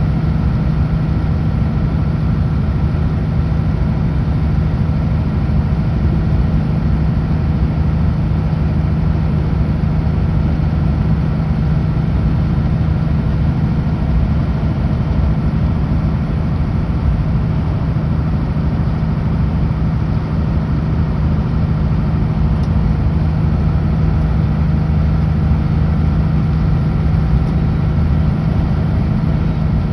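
Kenworth W900L semi truck's diesel engine droning steadily at highway cruise, with a constant low hum and an even wash of road noise that do not change.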